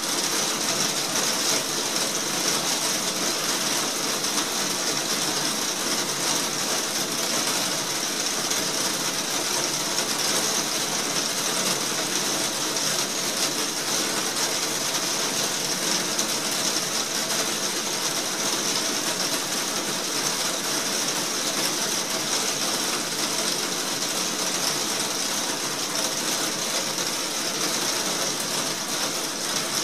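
Heavy rain falling steadily on a roof, heard from inside beneath it: a dense, even patter with no let-up.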